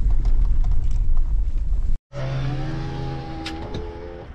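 Car engine and road rumble heard from inside the car on a rough muddy road: a heavy low rumble with scattered knocks, then, after a cut about two seconds in, a steady engine drone of constant pitch that slowly fades.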